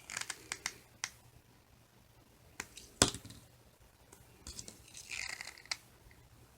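Small wooden coffee-stirrer pieces handled and set onto a birdhouse roof: scattered light clicks, taps and rustling, with one sharper click about three seconds in.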